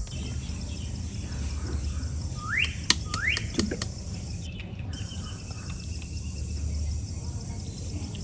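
Two short rising bird chirps about two and a half and three seconds in, over a steady low hum, with a couple of sharp clicks.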